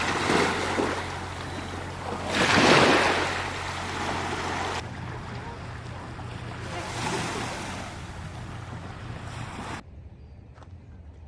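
Sea waves washing in, the rush of surf swelling and fading three times, under a steady low hum. Near the end the sound cuts to a much quieter background with a couple of faint clicks.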